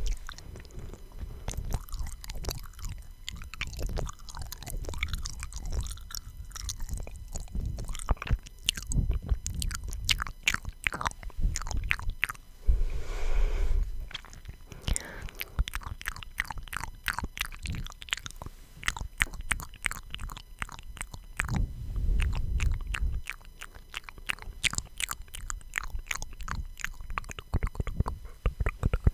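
Close-miked ASMR mouth sounds: irregular wet clicks and smacks, with a couple of softer, longer low sounds about 13 and 22 seconds in.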